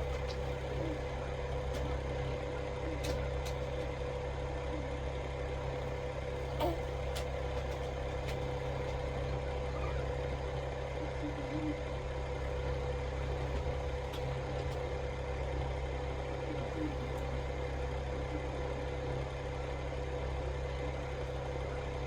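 Steady low mechanical hum with a constant mid-pitched tone over it, and a few faint clicks.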